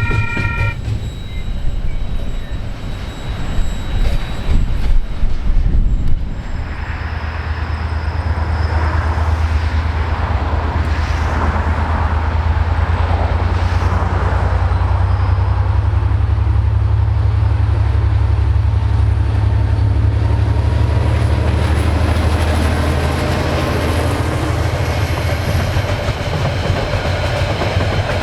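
Freight train passing: a horn note cuts off just after the start, then a diesel locomotive's steady low engine drone with the rolling noise of wheels and wagons over it.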